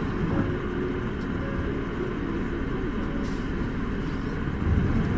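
Isuzu Erga city bus heard from inside the cabin: its diesel engine and road noise running steadily, the engine growing louder near the end as it pulls harder.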